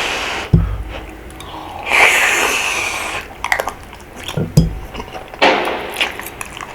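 Close-miked eating of hot rabokki: chewing and slurping of noodles and rice cakes, with rushes of breath and a few sharp clicks of utensils on the bowl.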